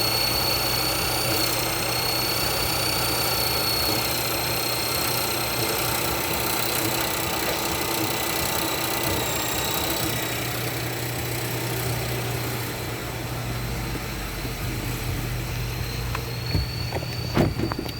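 2018 Ford Focus 1.0L EcoBoost turbo three-cylinder engine idling steadily, with a faint high whine over the engine. A few short knocks sound near the end.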